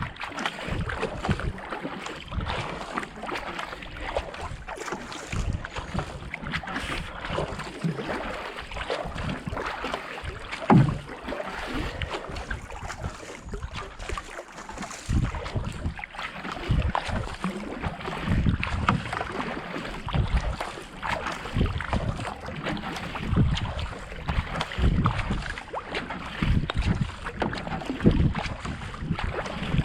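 Racing kayak paddle strokes at a pace of 70–80 strokes a minute, the blades dipping and pulling through canal water with repeated splashes and low thumps. Wind buffets the microphone throughout.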